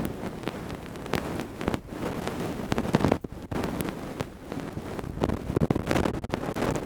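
Close-up ear-cleaning ASMR: ear-cleaning tools scraping and rubbing against a microphone's ear, giving a dense, irregular crackling and rustling full of short clicks.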